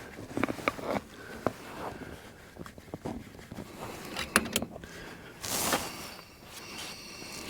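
Scattered metallic clicks and knocks as hydraulic hose fittings and parts are handled and fitted on a log splitter's cylinder, with a sharper knock about four seconds in and a brief hiss-like rustle soon after.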